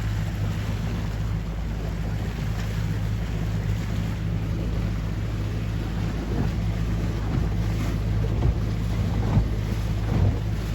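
Tour boat's engine running steadily, with wind buffeting the microphone. A few dull thumps come in the last couple of seconds.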